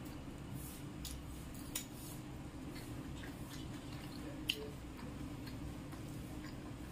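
Close-miked eating sounds of chicken liver and gizzard with rice eaten by hand: soft wet squishes and scattered sharp mouth clicks, the loudest about four and a half seconds in. A steady low hum runs underneath.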